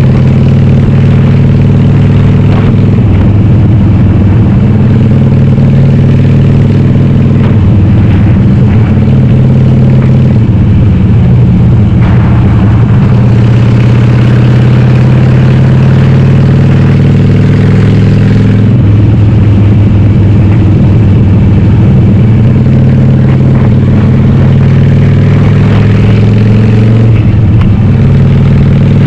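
Harley-Davidson Sportster 883R with a 1200 cc conversion, its air-cooled V-twin running loud through Cobra Speedster 909 pipes with the dB-killer baffles removed, heard onboard while riding. The engine note is steady but shifts in pitch several times as engine speed changes, dropping and climbing about 3 seconds in, again around 18 seconds, and near the end.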